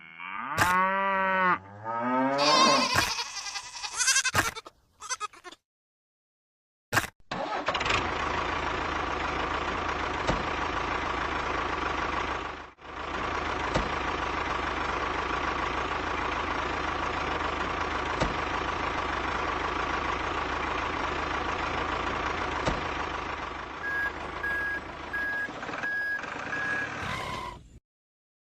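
A small motor running steadily for about twenty seconds, with a row of short even beeps near the end. It is preceded by a few seconds of short bleat-like sounds that glide up and down.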